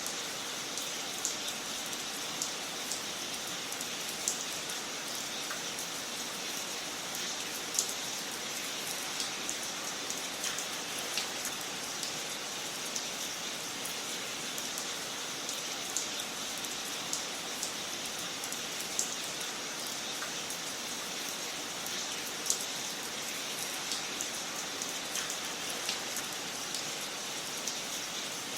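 Wood fire crackling in a fireplace: a steady hiss with irregular sharp pops and snaps, a few of them louder.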